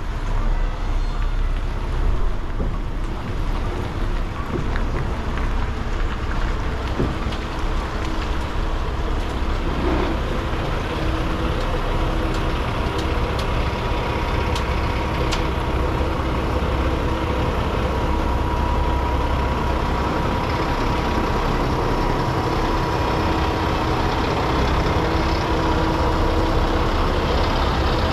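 Semi-truck driving at a steady pace: a constant low engine drone under road noise.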